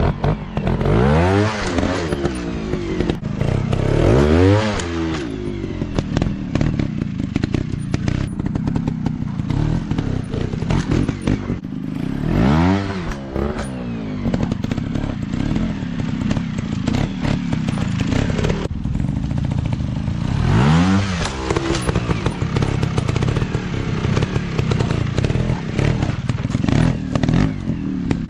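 Small dirt bike engines running, revved hard four times, each a quick rise and fall in pitch, with frequent sharp clicks and knocks between.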